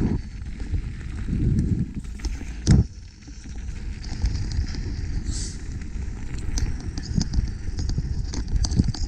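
Mountain bike ridden down a rough dirt trail: wind rumbling on the microphone, tyres on the ground and the bike rattling over bumps, with a sharp knock just before three seconds in.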